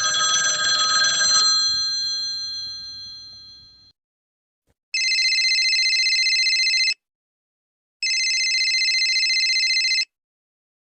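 A bell-like ringing tone that fades out over about three seconds, then a telephone ringing twice, each ring lasting about two seconds.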